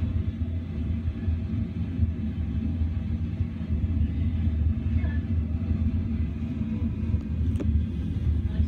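Steady low rumble of a moving passenger train heard from inside the carriage, with one short click near the end.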